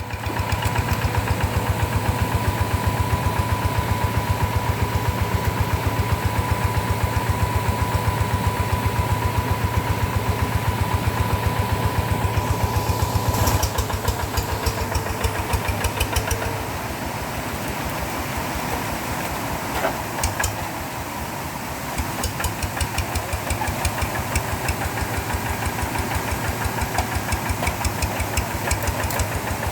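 Rice-field tractor engine running with a fast, even chugging beat. It eases a little about halfway through and picks up again later.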